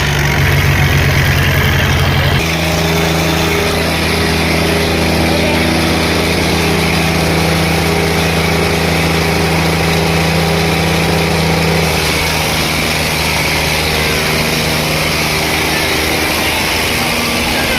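Diesel tractor engines running steadily in a tractor pulling contest, their pitch shifting about two and a half seconds in and again about twelve seconds in.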